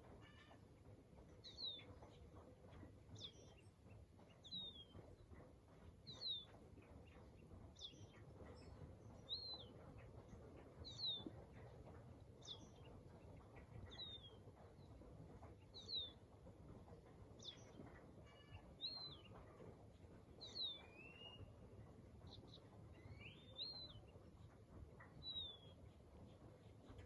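A bird calling over and over with a short, high note that slides downward, about once every one and a half seconds, over a faint low background noise. A different, lower call rises twice near the end.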